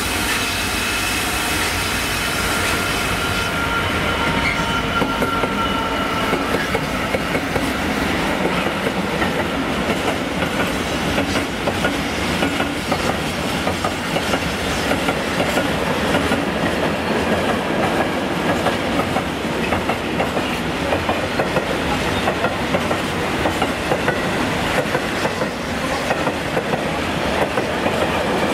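Freight train of covered wagons rolling past close by, its wheels clattering steadily over the rail joints in a rapid clickety-clack. A hiss and a faint high tone sound over the clatter in the first few seconds.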